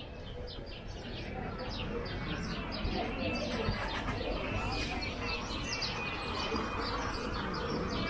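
Many small birds chirping rapidly and overlapping, over steady background noise, growing gradually louder.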